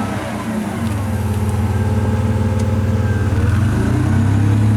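Propane-fuelled GM Vortec V6 engine of a Lowry L155XD forklift running steadily, slightly louder after the first second.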